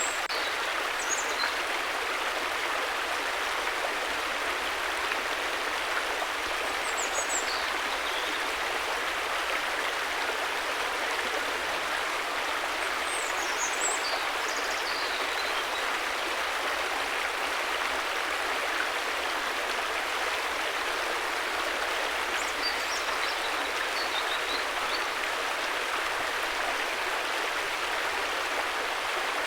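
River water flowing steadily with an even, constant rushing hiss. Faint short high chirps come through now and then.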